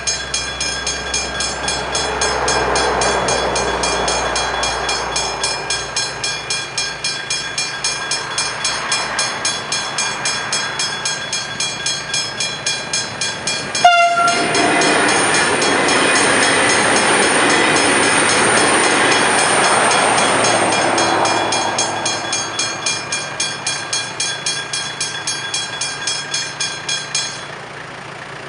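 Westinghouse hybrid level-crossing bells ringing with fast, even strokes of about two a second while a train passes through the crossing, its noise swelling and fading twice. There is a sharp click about halfway through, and the bells stop about a second before the end.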